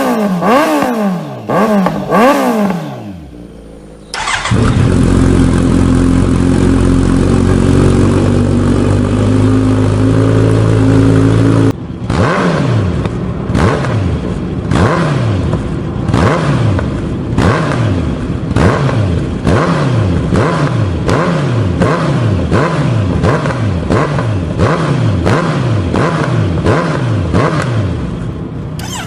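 Kawasaki Z900RS inline-four through an aftermarket exhaust, revved several times in quick succession, then held in a long steady pull that rises slowly in pitch. After a cut about twelve seconds in, it revs again in short blips about once a second.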